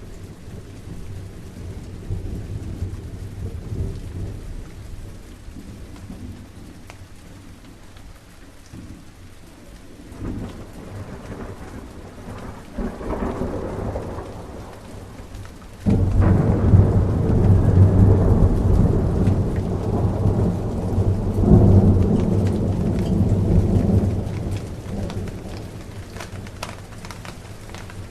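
Steady rain with rolling thunder. A low rumble builds about ten seconds in, breaks into a loud, sudden clap of thunder a few seconds later, rumbles on for several seconds and then dies away.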